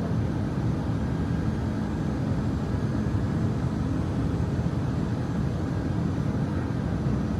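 Airbus A319 cabin noise in flight: a steady low rumble of jet engines and airflow heard from inside the cabin.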